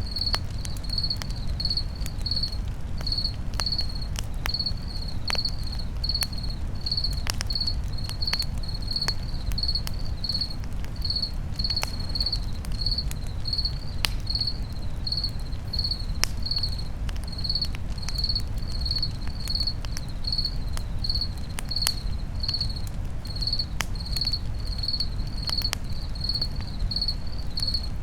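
Crickets chirping in a steady, even rhythm of about two chirps a second. A campfire crackles and pops irregularly over a steady low rumble.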